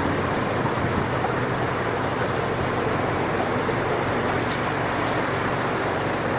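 Strong wind blowing steadily through coconut palm trees, an even rushing noise that holds at one level.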